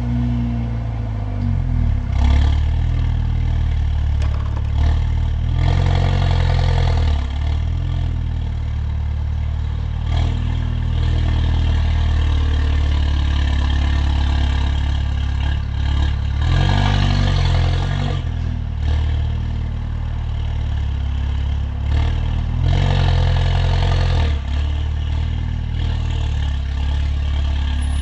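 Stage 2-tuned Mercedes-AMG CLA45's turbocharged four-cylinder engine and loud exhaust on the move, with a steady drone between short bursts of acceleration. The bursts come about five times, roughly 2, 6, 10, 17 and 23 seconds in, each louder with the engine note climbing.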